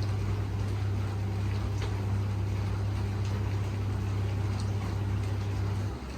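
A steady low electrical hum, like a small mains-powered motor or pump running, that cuts off suddenly near the end.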